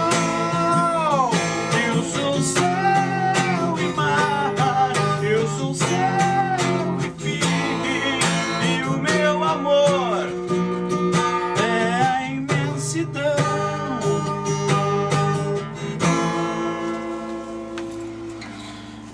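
Acoustic guitar strumming the song's chords under a gliding melody line. Near the end it settles on a final chord that rings and fades away.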